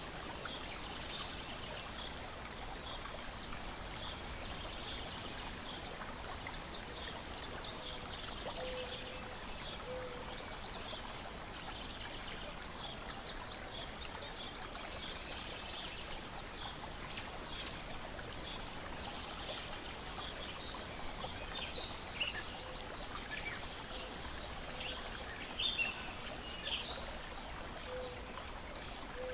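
Lake water lapping and splashing steadily, with small birds chirping over it. In the second half, scattered sharp pops from a crackling wood fire.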